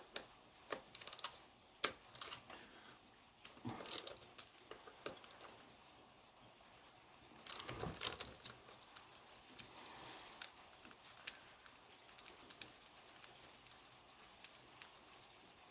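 Scattered light clicks and clinks of hand tools working on a motorcycle's front wheel, with a denser flurry of clicking about eight seconds in.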